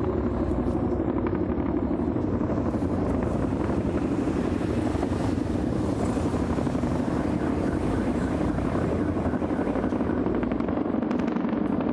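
Police helicopters flying past high up: a steady, rapid rotor chop over a low engine rumble.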